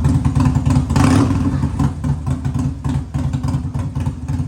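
Motorcycle engine running just after being started, with a rapid low pulsing beat and a brief louder surge about a second in.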